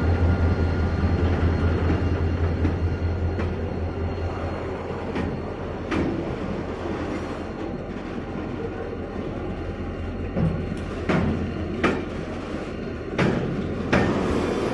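Container freight train rolling past at close range. The low drone of the GMU30 diesel locomotive fades over the first few seconds, leaving the steady rumble of the loaded container flatcars. Sharp wheel knocks over the rail come several times in the second half.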